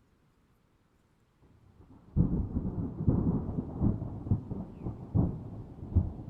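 Thunder: a low rumble builds out of near silence about a second and a half in, then a sudden loud clap about two seconds in breaks into rolling rumble with repeated booms.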